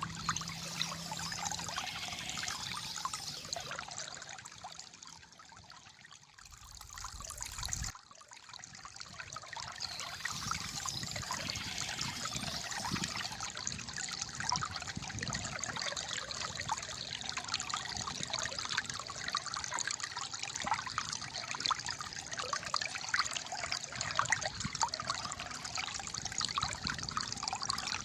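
Calm flowing water trickling and gurgling steadily. It softens about four seconds in, then comes back sharply about eight seconds in.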